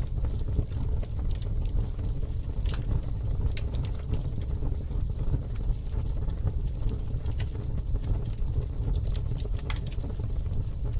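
Campfire burning: a steady low rumble of flames with scattered sharp crackles and pops, the loudest a little under three seconds in.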